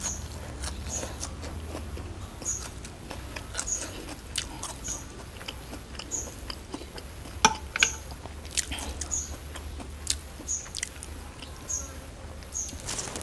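A person chewing and crunching food close to the microphone, with many small irregular clicks and a few sharper crackles. The food is rice noodles in coconut-milk sauce with bean sprouts and a crisp fried topping.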